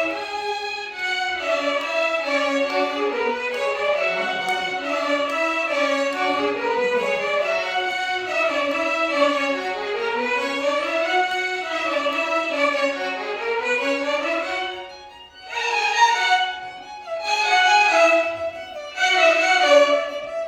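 Violin orchestra playing a Carnatic melody in flowing stepwise runs that climb and fall. About fifteen seconds in, the playing breaks into three short, loud phrases with brief pauses between them.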